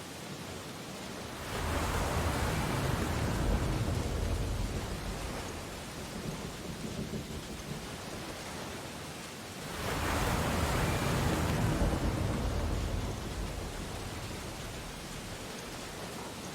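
Ocean waves breaking on a beach: two waves crash, one about a second and a half in and another about ten seconds in, each rushing and then washing back and fading into a steady hiss of surf.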